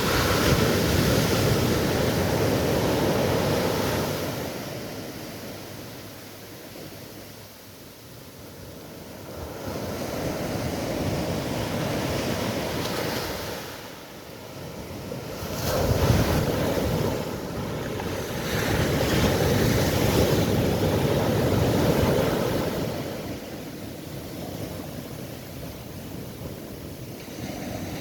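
Surf: waves breaking and washing back, the rush of water swelling and fading every six to eight seconds.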